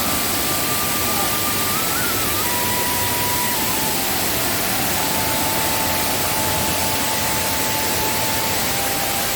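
Waterfall in rainy-season high flow: rushing water as a steady, even roar, with a faint thin tone drifting slowly in pitch above it.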